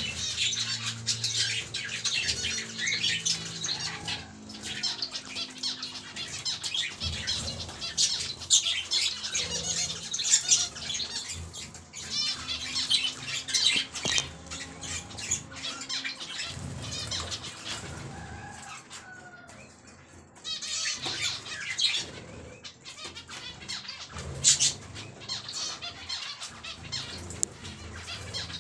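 A group of finches and lovebirds chirping and squawking, with wings flapping. The chirping dies down briefly about two-thirds of the way through, then picks up again.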